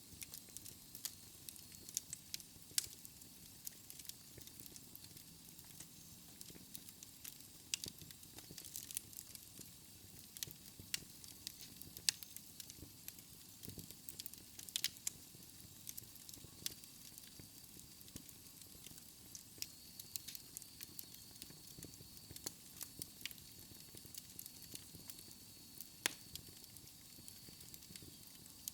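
Wood fire crackling in a fireplace: irregular sharp pops and snaps over a soft steady hiss. A faint thin high tone comes in about halfway through.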